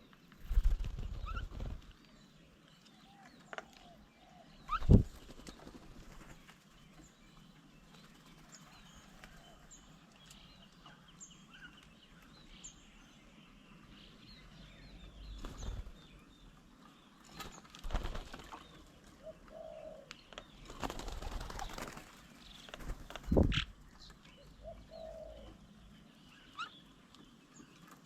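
Birds' wings flapping in several short bursts as they come and go, with a couple of soft dove coos.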